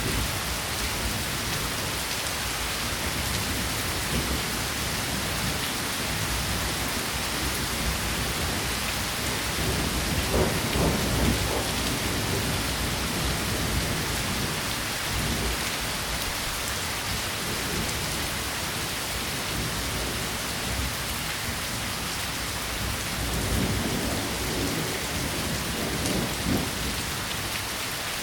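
Steady rain falling on surfaces, recorded on a Zoom H1 handheld recorder. Low rumbles swell up about a third of the way in and again near the end.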